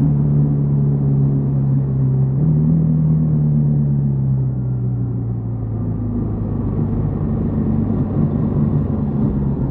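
Yamaha XTZ 150 Crosser S motorcycle's single-cylinder engine running under way. Its pitch steps up about two and a half seconds in, then slowly falls as the engine slows.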